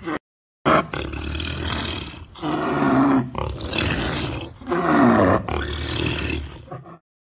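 Big cat growling and roaring in a string of calls, two of them sliding down in pitch; it starts after a short gap near the beginning and stops shortly before the end.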